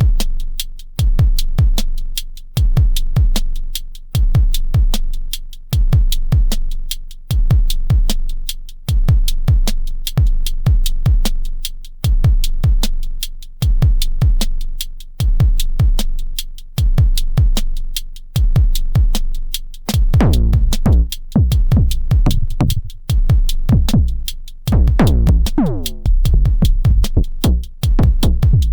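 Elektron Syntakt drum machine playing a programmed electronic beat: a steady kick pattern with decaying booms under fast, constant hi-hat ticks. About twenty seconds in the low end grows fuller and busier, and near the end a pitched hit sweeps down in pitch.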